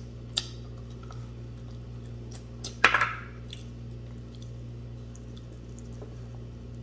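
Close-up eating sounds of rice and buffalo leg soup: soft scattered mouth clicks and chewing, with one louder, longer wet mouth sound about three seconds in, over a steady low hum.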